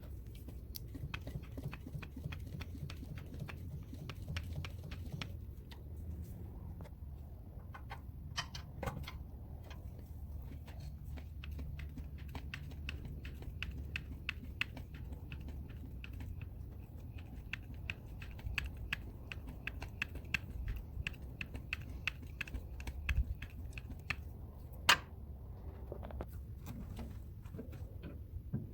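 Many small, irregular clicks and clacks of a grease gun being worked onto a tractor's grease fittings, over a steady low rumble, with one sharper click about 25 seconds in.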